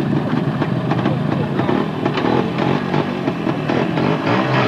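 Soviet-era motorcycle engine running, with faint voices behind it.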